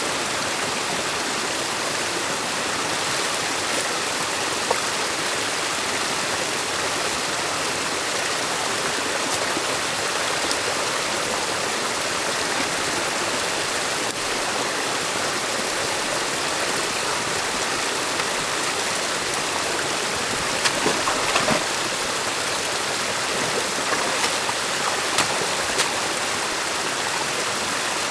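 Stream water rushing steadily through a beaver dam on a forest stream. A few short splashes or knocks come about 21 seconds in and again a few seconds later, as the sticks and mud of the dam are worked by hand.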